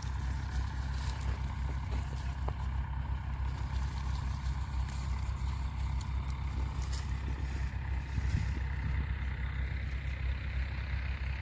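An engine running steadily with a low rumble, its pitch edging up slightly near the end.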